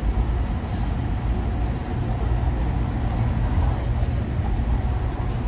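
Steady low rumble of a moving vehicle, road and engine noise heard without pause.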